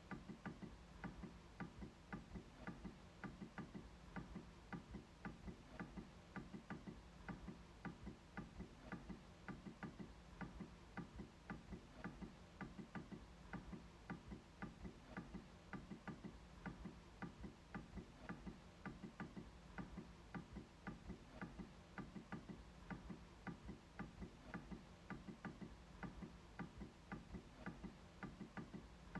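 MacBook trackpad being clicked over and over in an even, steady rhythm, about two or three faint clicks a second.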